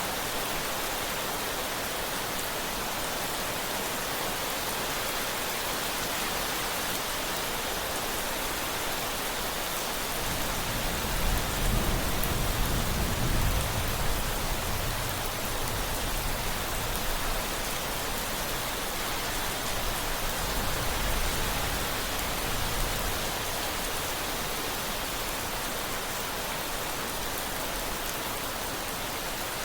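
Steady heavy rain hissing on a surface, with a low roll of thunder that builds about ten seconds in, peaks a few seconds later and fades away over the next several seconds.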